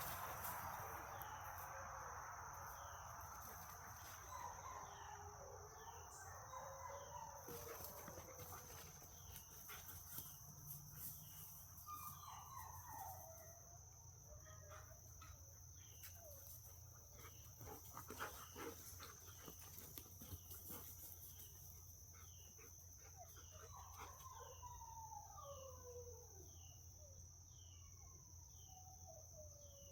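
Faint outdoor ambience: a steady high insect drone, scattered light clicks and taps, and a few drawn-out falling animal calls.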